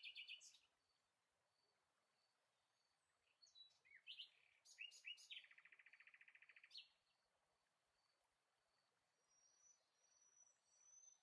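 Near silence with faint bird chirps: a few short calls at the start and a scattering of chirps and a short buzzy trill about four to seven seconds in.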